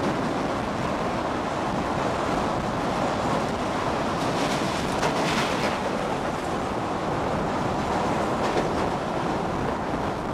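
Passenger train running at speed across a steel girder bridge: a steady rumble and rattle of coach wheels on the rails, mixed with wind rushing over the microphone at the open window.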